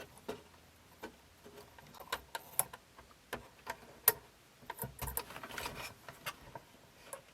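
Light, irregular clicks and taps of small plastic parts being handled while a rubber drive belt is fitted onto the pulleys of a cassette deck mechanism.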